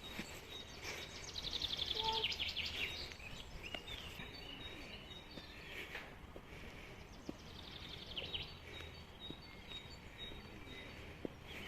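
Birds calling: a rapid, high-pitched trill lasting about two seconds, starting about a second in, and a shorter trill about two-thirds of the way through, over faint steady background noise.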